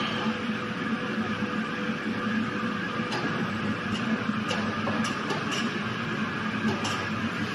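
BOKE vertical glass washing machine with its air-knife drying blower running steadily, a constant machine hum and rush of air, with a few light clicks in the middle.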